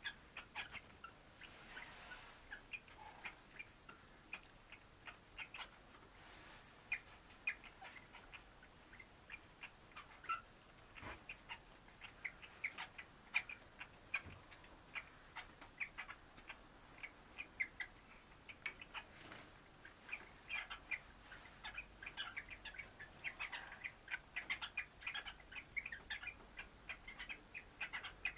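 Cockatiel chirping: a long run of short, quick chirps and clicks that grows busier in the second half.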